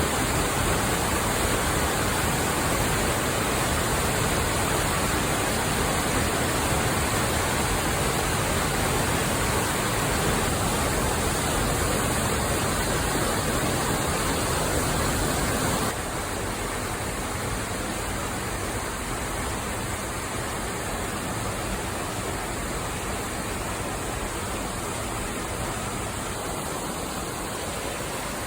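Waterfall: a steady, even rush of falling water. About halfway through it drops a little quieter and duller, as at a cut to another spot.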